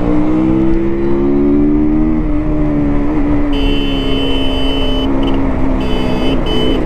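Motorcycle engine running at a steady cruising speed, its note rising slightly over the first two seconds and then holding. From about halfway a high, steady electronic-sounding tone cuts in and out several times.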